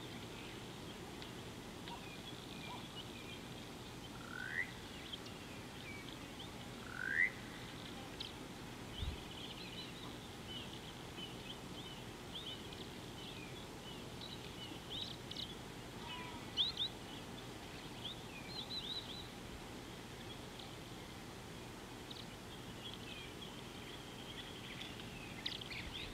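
Wild birds calling: many short high chirps scattered throughout, with two clear rising whistles about four and seven seconds in, over a steady outdoor hiss.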